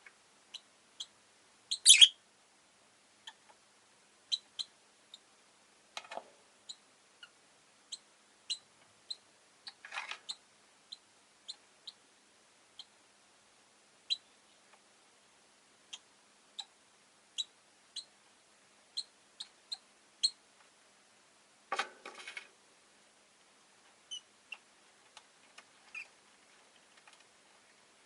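Rosy-faced lovebird chirping: short, high-pitched chirps every half second to a second, with a louder call about two seconds in and a few rougher, noisier bursts around six, ten and twenty-two seconds.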